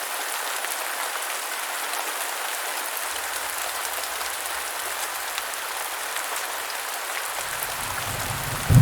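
Heavy rain falling steadily, a dense even patter. Near the end a low rumble of thunder builds and swells suddenly.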